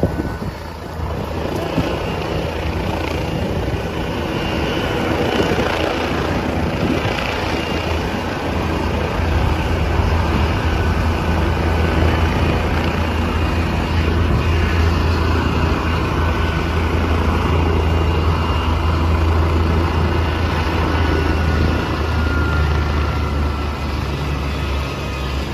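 Helicopter landing: a steady, loud deep drone of rotor and engine noise with a faint whine above it, growing louder about nine seconds in.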